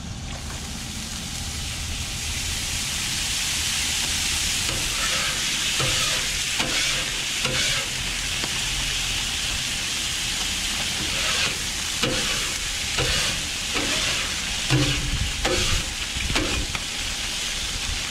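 Water squirted onto a hot Blackstone flat-top griddle, sizzling and steaming as it loosens stuck-on taco seasoning. From about five seconds in, a brush scrubs the griddle surface in short, irregular scratching strokes over the hiss.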